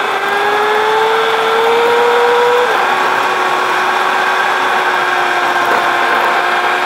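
A car's engine heard from inside the cabin over steady road noise. Its whine rises in pitch, drops suddenly about two and a half seconds in, and then holds steady.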